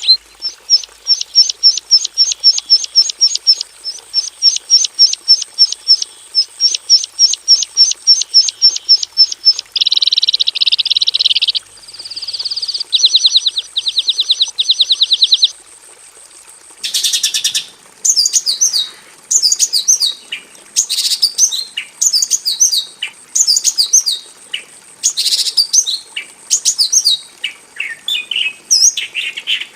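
Javan bushlark (Mirafra javanica) singing: a long run of rapid repeated high chirps, about four a second, breaking into buzzy trills. After a short pause comes a varied string of chirps and warbled phrases.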